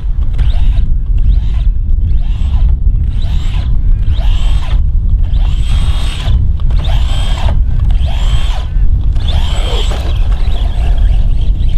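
Vaterra Halix 1/10-scale RC monster truck's brushless electric motor whining in short bursts about once a second as the throttle is blipped, the pitch rising and falling with each burst, over a heavy constant low rumble.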